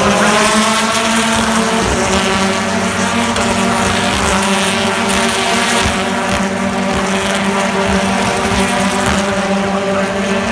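British Touring Car Championship race cars' two-litre turbocharged four-cylinder engines running at high revs on track: a loud, steady engine note holding nearly one pitch throughout.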